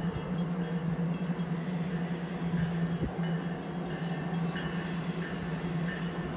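Amtrak Northeast Regional train approaching from a distance: a steady low hum, joined about halfway through by an on-and-off high-pitched hiss from the rails as the train nears.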